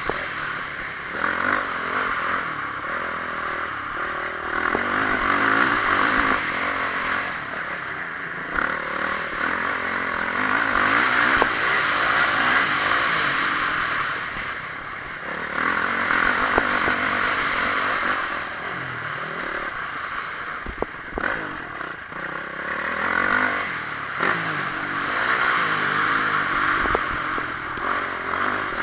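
Honda CRF450R's single-cylinder four-stroke engine racing around a motocross track, the revs rising and falling every few seconds as the throttle opens and shuts, under a steady rushing noise.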